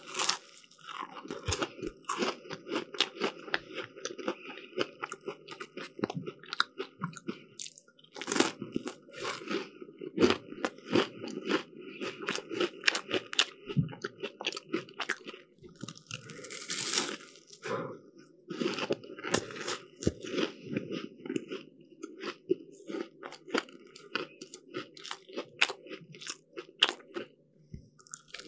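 Close-miked eating of crisp flaky pastry: repeated crunchy bites and chewing with dense crackling, pausing briefly a few times.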